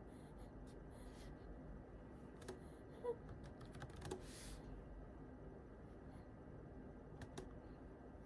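Faint computer keyboard keys tapped now and then, a few scattered clicks rather than steady typing, with a brief soft swish just past halfway.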